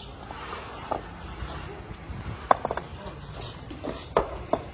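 Irregular sharp knocks and clicks, a handful spread over a few seconds, over a low steady outdoor background.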